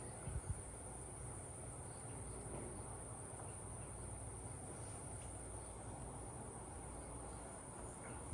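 Crickets trilling steadily as one continuous high tone, over a faint low rumble, with a couple of soft low thumps about half a second in.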